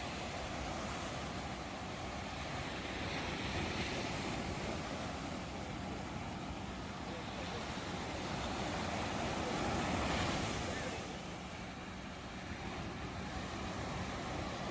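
Ocean surf: waves washing onto a shore in a continuous rush that swells and recedes, with a larger wave breaking about ten seconds in.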